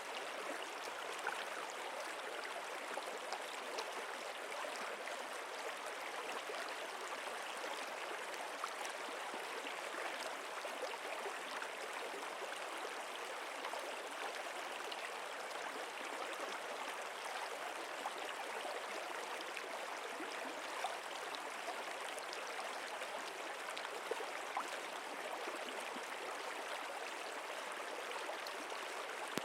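Stream water flowing steadily over rocks, a continuous babbling with small splashes.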